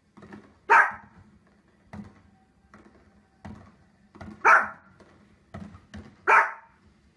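Small fluffy dog barking three times, sharp loud barks a couple of seconds apart, with fainter short knocks in between.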